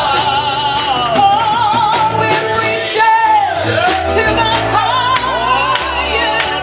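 Gospel duet singing a hymn with wavering vibrato over musical accompaniment with a steady beat.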